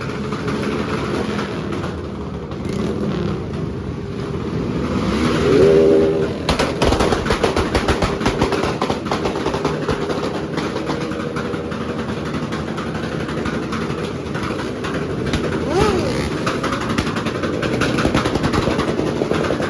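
Motorcycle engines running and revving in a loud, continuous din, with a sharp rev rising and falling about five seconds in and another near the end.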